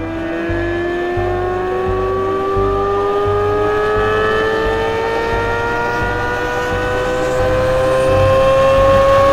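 2023 Corvette Z06's flat-plane-crank V8 accelerating hard, its note climbing steadily in pitch as the revs rise through a long pull.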